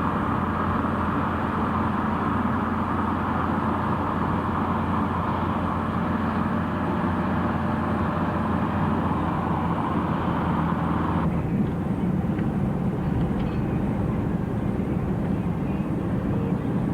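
Steady vehicle running noise, a low engine hum under an even rushing noise; about eleven seconds in the higher part of the noise abruptly drops away.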